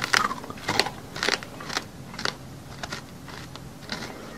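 Crunchy biting and chewing, a sharp crisp crunch about every half second, like teeth grinding through something hard and gritty.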